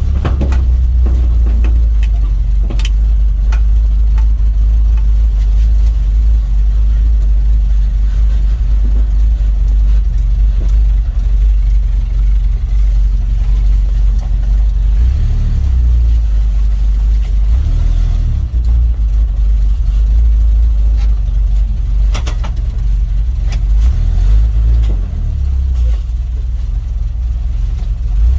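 Dodge D100 pickup's slant-six engine running under way, a loud, steady low rumble that swells a few times as the truck speeds up, with a few sharp knocks near the start and about two thirds of the way through.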